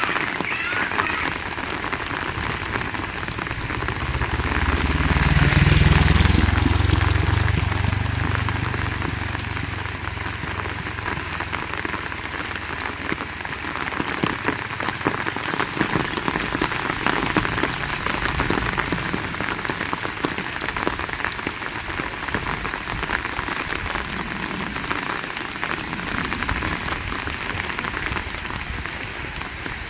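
Heavy rain falling steadily, a dense hiss. A few seconds in, a low rumble swells up and dies away over several seconds.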